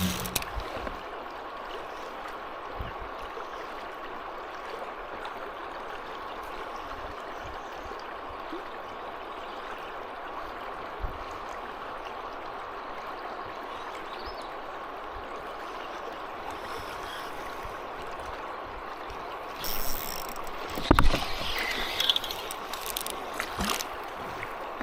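Steady rush of fast river current over shoals, with a faint steady hum beneath it. From about twenty seconds in, a cluster of knocks and rattles.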